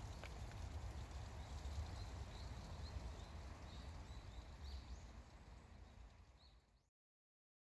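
Outdoor ambience of small birds giving short, high chirps, several in a row at uneven intervals, over a low rumble. The sound fades out to silence near the end.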